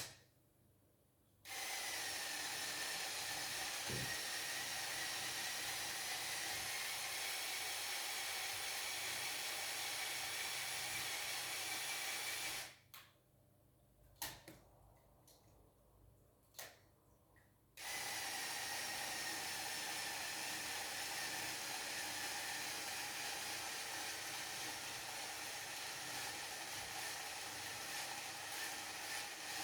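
Small electric motor whirring steadily through plastic gears of a LEGO Technic model under a load test. It runs for about eleven seconds, stops, and a few clicks follow. It starts again about five seconds later and keeps running.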